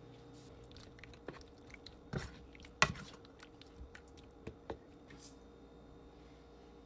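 Faint, scattered clicks and knocks of a utensil working in a pan of chicken in sauce, loudest about three seconds in, over a low steady hum.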